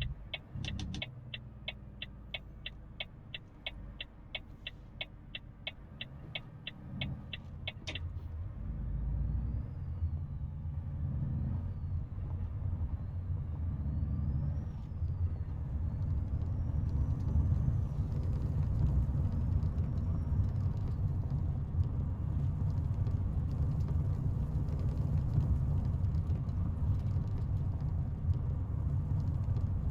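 Inside a Volvo FH 500 truck cab: the turn-signal indicator ticks evenly for about the first eight seconds, then stops as the left turn is completed. Under it the truck's diesel engine rumbles low, growing louder as the truck pulls away.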